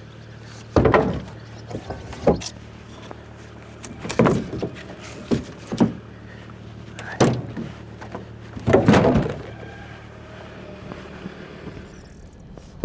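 A series of irregular heavy knocks, about seven, some doubled, over a steady low engine-like hum.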